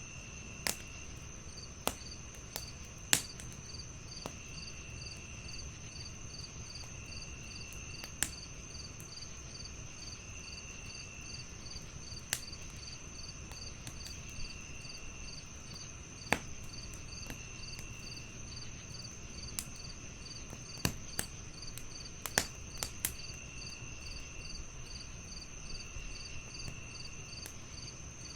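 Wood fire crackling, with sharp pops scattered irregularly as the loudest sounds, over a steady chorus of crickets: one chirping at an even pace and another trilling in short phrases every couple of seconds.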